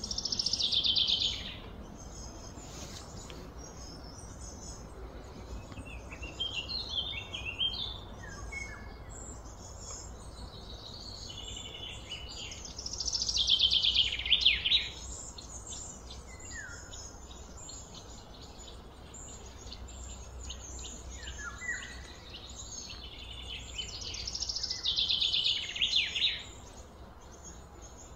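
Birds singing and chirping: a loud trill of rapid notes falling in pitch comes three times, about every twelve seconds, with fainter chirps in between, over a steady low background hum.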